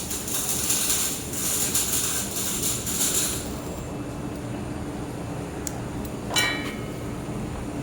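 Handheld laser welder in use: a crackling hiss that stops about three and a half seconds in, leaving the steady hum of the machine. A short metallic clink near the end.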